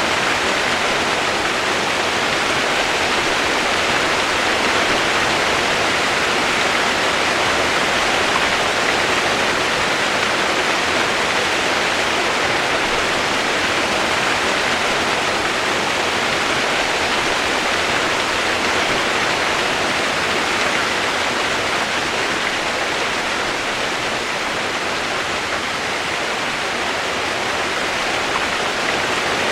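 Steady rushing water, an even unbroken hiss with no other events.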